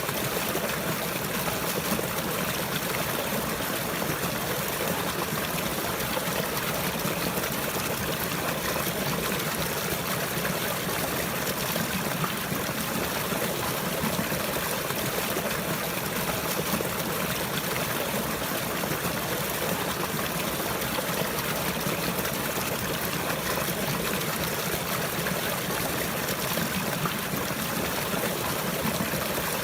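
Flowing water trickling and running steadily, like a small stream, with no change in level.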